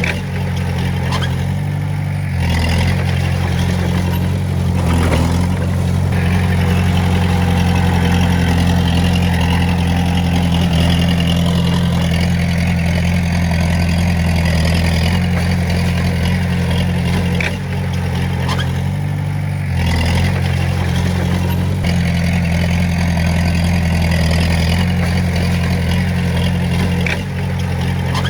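Diesel engine of a Komatsu D20A crawler bulldozer running steadily and loudly, with a few brief dips, near the start, around 5 s and in the last third, as the load changes, and faint metallic clicks.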